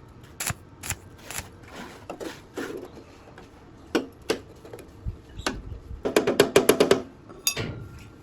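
Hand-work knocks and taps, one sharp strike about every half second, then a quick run of about ten strikes near the end.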